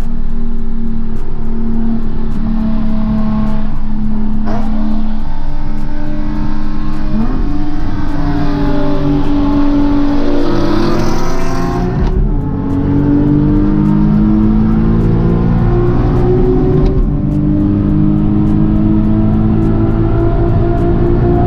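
Car engine and exhaust running under load while driving, the pitch climbing and falling back as it changes gear, with a clear drop about twelve seconds in.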